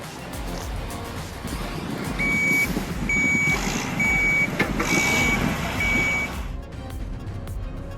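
Heavy vehicle's backup alarm beeping five times at a steady high pitch, about one beep a second, over the low rumble of a working machine, with background music.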